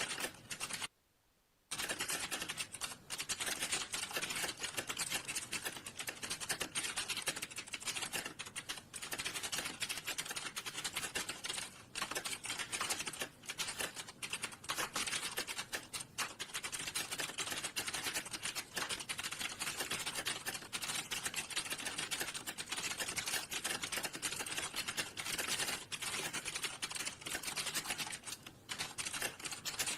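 Fast, continuous typing on a computer keyboard, with a brief pause about a second in.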